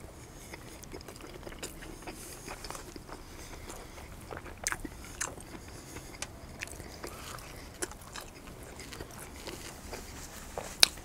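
Close-up biting and chewing of a double bacon cheeseburger: small wet mouth clicks scattered throughout, with a few louder crunches, and one sharp click near the end.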